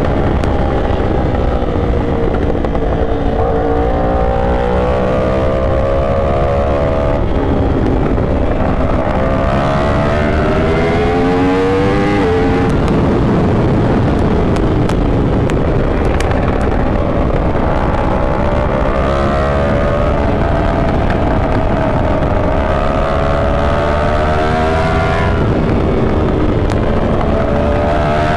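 Yamaha R1 sport bike's inline-four engine under way, its revs climbing in long rises that drop back every four or five seconds as it shifts or rolls off the throttle. A steady low rushing noise runs underneath.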